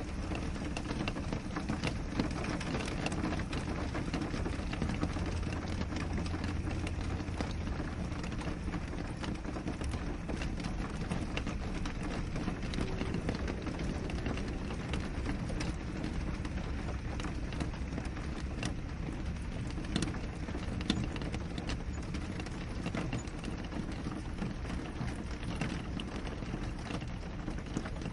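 Steady rain falling on a window glass, with many individual drops ticking through an even hiss and a steady low rumble underneath. A couple of sharper drop hits come about twenty seconds in.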